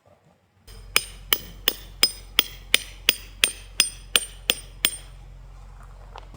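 A hammer striking a metal stake or peg about a dozen times in an even rhythm, roughly three blows a second, each blow ringing metallically.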